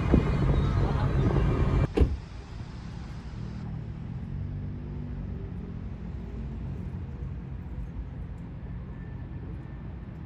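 Car running with a loud low rumble that ends with a sharp knock about two seconds in. After that only a much quieter low hum remains.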